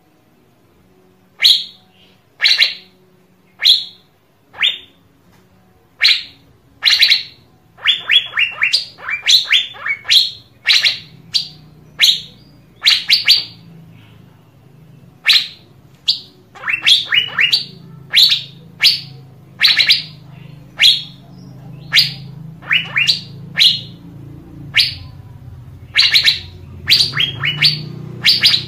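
Asian fairy-bluebird giving short, sharp, high call notes, some single and some in quick runs of three to five, with brief pauses between. A faint low hum lies underneath from about a third of the way in.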